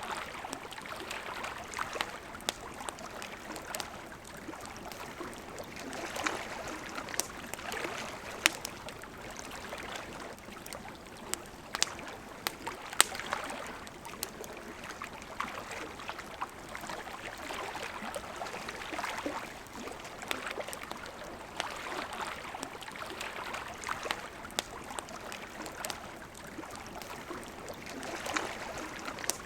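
A wood campfire crackling, with sharp, irregular pops, over the steady rush of a flowing river whose sound swells and eases every few seconds.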